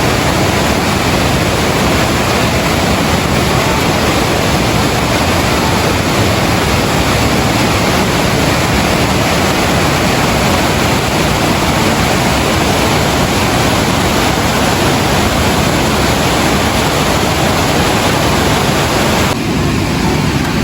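Steady, loud rush of water, with no rhythm or single events; its tone changes slightly about a second before the end.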